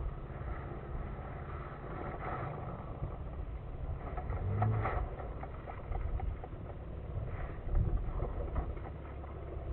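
Steady low rumble of wind buffeting the microphone, swelling a little about halfway through, with a brief louder gust near the end.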